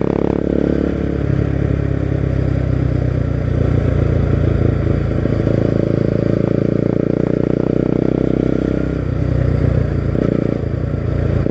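Bajaj Pulsar NS200's single-cylinder engine running under way through an aftermarket Akrapovic exhaust. The engine note shifts about a second in and again near the end.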